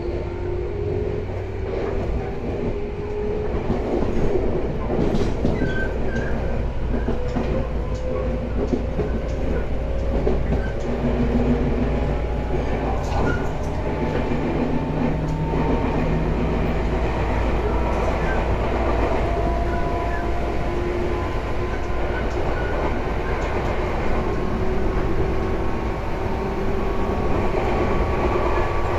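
Tobu 10030 series electric train running at speed. A whine from its motors and gears rises slowly in pitch as it gathers speed, over a steady rumble and the clatter of its wheels on the track.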